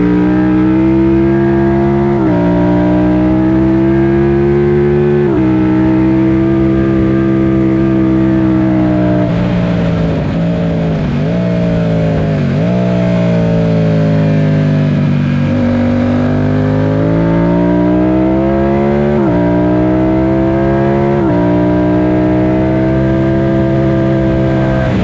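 Yamaha FZ-07's parallel-twin engine under hard acceleration, its pitch climbing through the gears with quick drops at upshifts about 2, 5, 19 and 21 seconds in. Around 11 and 13 seconds it falls sharply twice, as on downshifting, then pulls up again.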